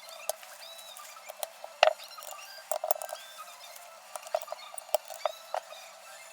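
Irregular light clicks and taps of small tools and parts being handled, about a dozen, the loudest near two seconds in.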